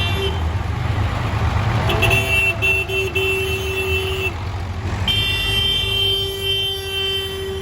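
Tractor engines running with a steady low rumble as tractors pass. A steady high tone, typical of a horn, sounds over them, breaks off a little past four seconds in and comes back about a second later.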